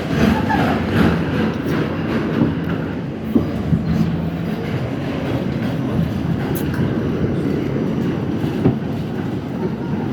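New York City Subway R68 train running on the rails: a steady rumble of wheels on track, with a few sharp clicks scattered through it.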